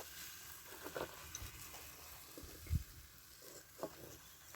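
A few faint, scattered knocks and clicks over a low, steady hiss.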